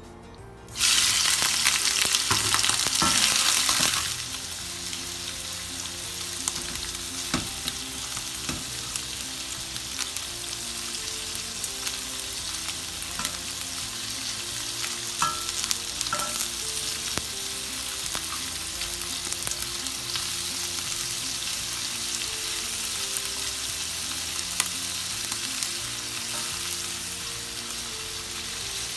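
Raw prawns hitting hot oil in a wok with a sudden loud sizzle about a second in, settling after a few seconds into steady shallow-frying sizzle. Occasional sharp clicks of metal tongs against the pan as the prawns are turned.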